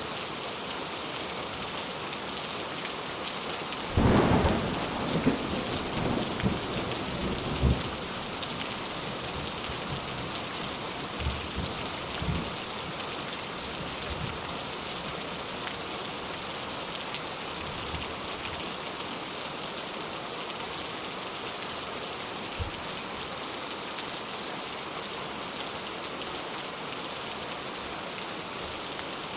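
Steady rain falling, with a sudden thunderclap about four seconds in that rumbles on for a few seconds, then fainter rolls of thunder a little later.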